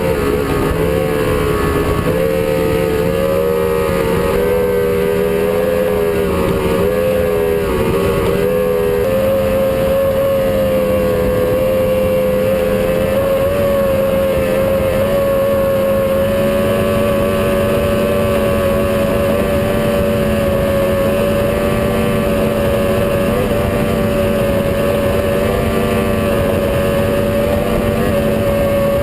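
Motorboat engine running hard at speed over rushing wind and water noise. Its pitch wavers up and down for the first several seconds, then settles into a steady high drone.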